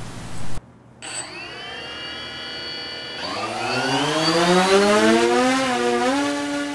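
DJI Phantom quadcopter's electric motors and propellers starting up with a steady whine about a second in, then rising in pitch as the throttle is opened for takeoff. The separate rotors' tones waver briefly near the end, then hold steady.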